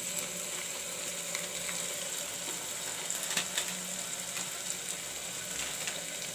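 Onion-and-spice masala frying in oil in a pressure cooker, a steady sizzle as the masala browns, with a couple of faint clicks about three and a half seconds in.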